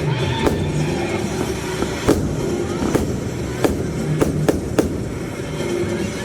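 Fireworks bursting overhead: about seven sharp cracks at uneven intervals, several bunched together in the second half, over a steady background din.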